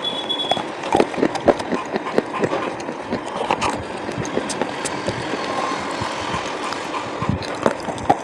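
Coloured slate pencils being bitten and chewed close to the microphone: irregular sharp crunches and cracks, several a second.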